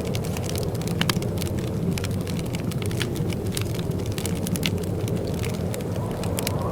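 Wood fire in a fireplace crackling: many irregular sharp snaps and pops over a steady low rushing sound.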